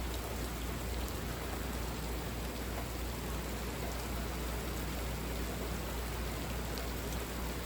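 Steady, heavy rain pouring down, an even hiss with a low rumble underneath.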